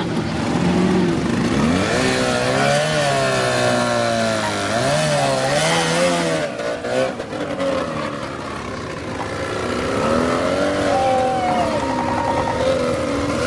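Unimog truck engine running under load, its pitch rising and falling repeatedly as it revs up and down.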